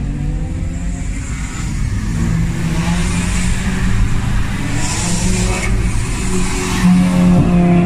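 Modified cars' engines and loud exhausts as cars drive off. One engine's note falls away in the first second or so, then another engine holds a steady drone that grows louder near the end.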